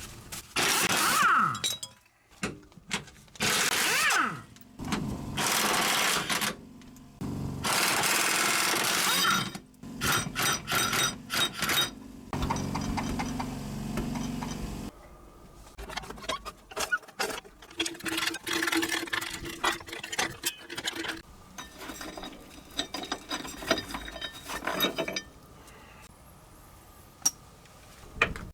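Tool work under a car: four loud bursts of a power tool, each one to two seconds long, in the first ten seconds, then a run of rapid clicks, a short steady hum and scattered metallic clicks and knocks.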